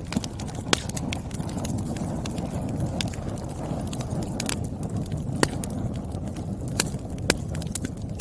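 Wood fire burning: a steady low rumble of flame with sharp, irregular pops and crackles from the burning firewood, a handful of louder snaps scattered through.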